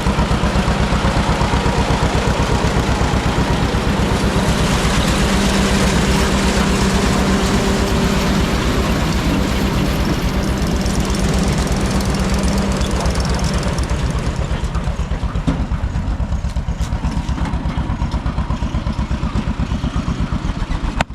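Old tractor engine running with a fast, even firing beat while working a corn picker. A loud rushing clatter of machinery rides over it and fades out about fourteen seconds in, leaving the engine beat.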